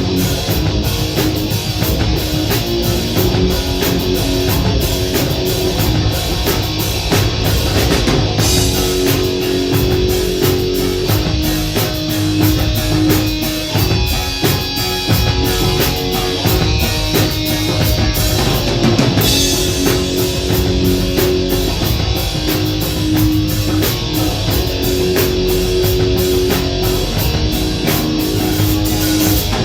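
Rock band playing live: drum kit with constant cymbal wash under a repeating electric guitar riff, loud and unbroken.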